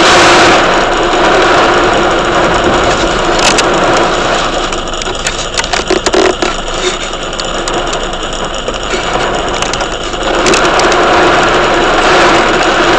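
Heavy thunderstorm rain and wind: a loud, steady roar that eases in the middle and swells again near the end, with scattered sharp taps.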